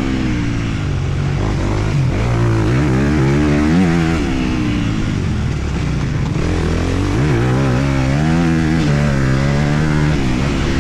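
Honda CRF250R's single-cylinder four-stroke engine being ridden hard around a motocross track, the revs repeatedly climbing under throttle and dropping off between sections, heard from the rider's helmet.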